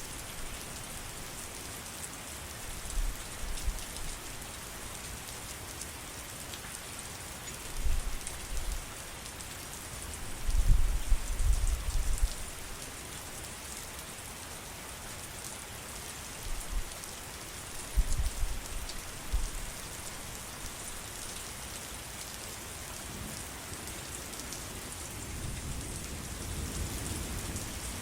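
Steady heavy rain falling, a continuous hiss, broken by several short low rumbles, the loudest about eleven seconds in and another around eighteen seconds.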